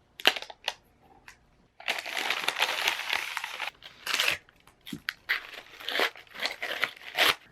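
Packaging being handled and opened: crinkling and rustling, with one long stretch of rustle about two seconds in, then shorter rustles and a few sharp clicks.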